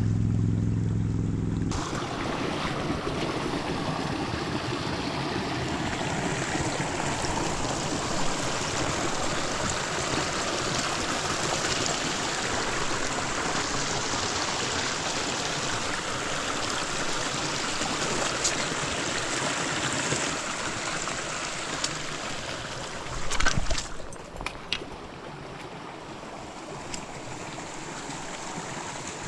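Small creek running, a steady rush of water with no tones in it. A short cluster of sharp knocks comes near the end, and after it the water is softer.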